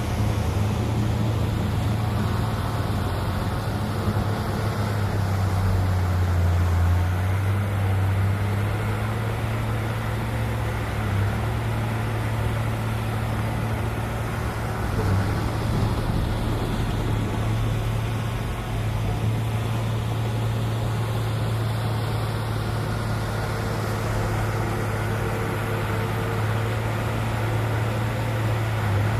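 A heavy construction machine's diesel engine running steadily with a low drone, which grows stronger and deeper for a few seconds around six to eight seconds in.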